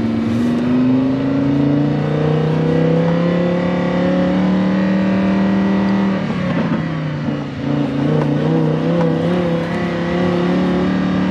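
Lamborghini engine pulling steadily under way, its pitch climbing slowly for the first few seconds, then a short break in the note about six to seven seconds in before it runs steady again; the engine is not yet warmed up.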